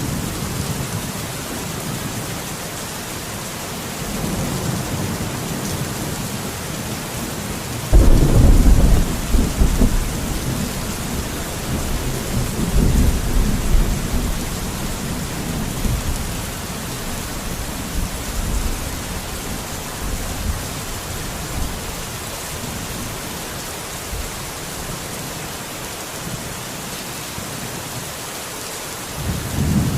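Steady rain falling, with thunder rumbling through it. The loudest thunderclap breaks suddenly about eight seconds in and rolls for a couple of seconds. A softer rumble follows a few seconds later, and another comes near the end.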